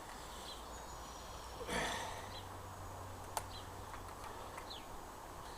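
Faint bird chirps, a few short high calls spread over several seconds, over a steady low hum. A brief rustling noise comes about two seconds in, and a single sharp click a little past the middle.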